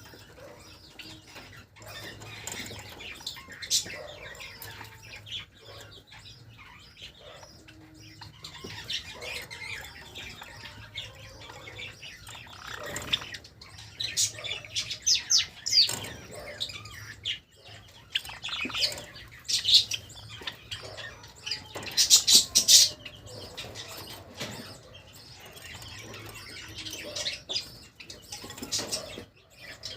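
Pet Java sparrows chirping, mostly scattered short high chirps, with louder bursts of rapid chirping a little after halfway and again around three-quarters of the way through.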